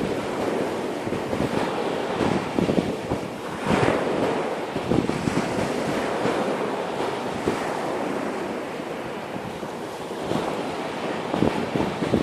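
Sea surf washing onto a beach, with wind buffeting the microphone.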